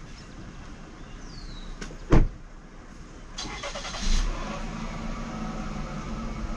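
A car door shuts with a single loud thump about two seconds in. About a second later a car engine cranks and starts, then settles into a steady idle.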